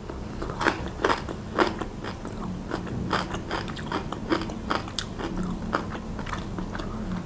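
A woman chewing a mouthful of food close to the microphone, with many small crisp crackles as she bites and chews, the sharpest in the first two seconds.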